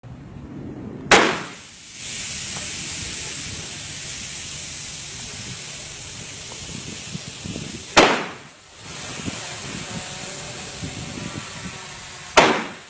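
Three revolver gunshots, spaced several seconds apart, fired into a utility truck's tires and recorded on a cellphone. A steady hiss runs between the shots.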